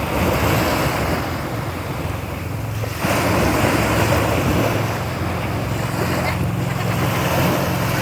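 A pumpboat's 7.5 hp gasoline engine running steadily with a low hum, mixed with the wash of waves and wind buffeting the microphone.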